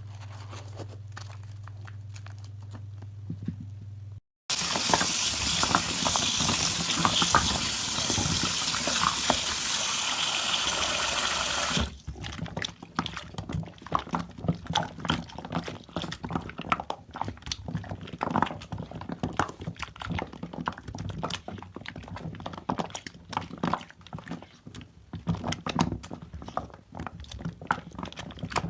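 A low steady hum, then a water tap running hard for about seven seconds and stopping suddenly. After that come wet, irregular crackling and squishing as soap lather is worked and squeezed by hand.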